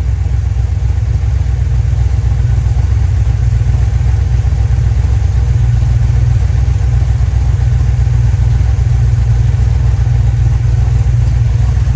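Freshly rebuilt Chrysler 318 small-block V8 idling steadily, with a deep, even running note and ignition timing set at about 15 degrees at idle.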